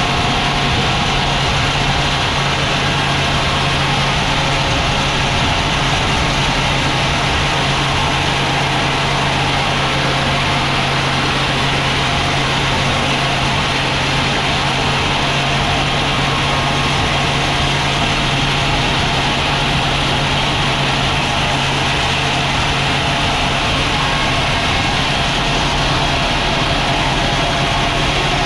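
Sawmill machinery running steadily, an even engine-like drone with a constant low hum that does not change.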